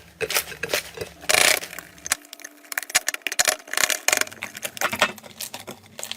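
Slime being squeezed and worked by hand, giving rapid, irregular crackling and clicking, with a louder crunch about a second and a half in.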